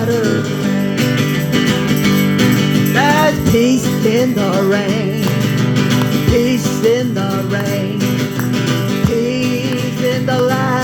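Guitar music in a country gospel style: steady chords underneath a melody line that bends and wavers in pitch.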